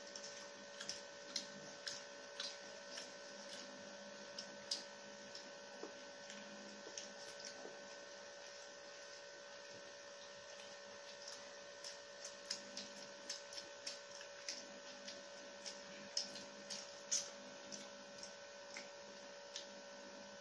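Close chewing of chicken-egg rolls: irregular, soft mouth clicks and smacks scattered throughout, over a steady electrical hum.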